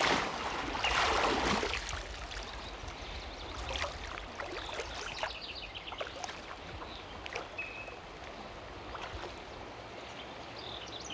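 River water sloshing and splashing as a person is immersed and raised in a baptism by immersion, loudest in the first two seconds, then settling into dripping and trickling water. Birds chirp briefly near the end.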